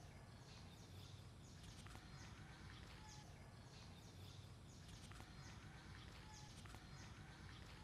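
Near silence: faint garden ambience with a low steady rumble and repeated short, high bird chirps.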